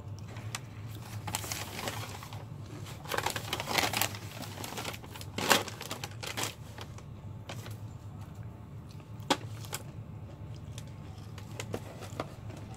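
Close-up chewing of crispy fried chicken: irregular crunches and mouth clicks, the loudest a little before halfway, over a steady low hum.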